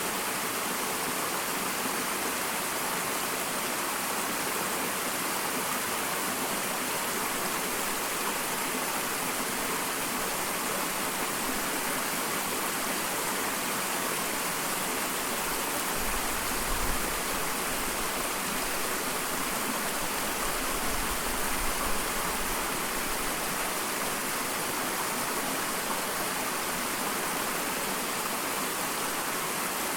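Small waterfall: a steady rush of falling water. Brief low rumbles come just past halfway and again about two-thirds through.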